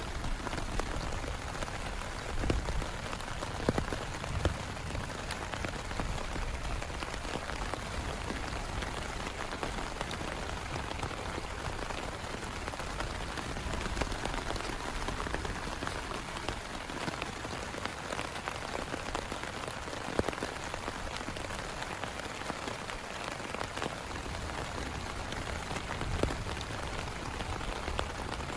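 Heavy rain falling steadily, with a few louder single drops striking close by.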